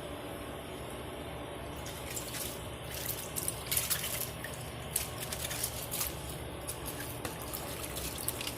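Water bubbling and dripping: a steady wash of noise under irregular small pops and drips that grow busier after about two seconds.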